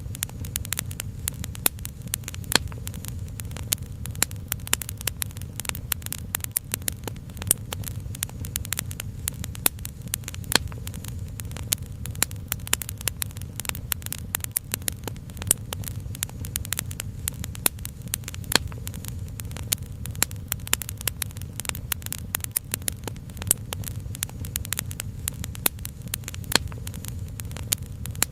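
Crackling wood fire: dense, irregular sharp pops and snaps over a steady low rumble.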